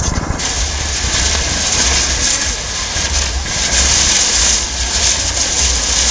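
Many fireworks shells with glittering crackle effects bursting at once: a dense, continuous crackling hiss with a low rumble underneath.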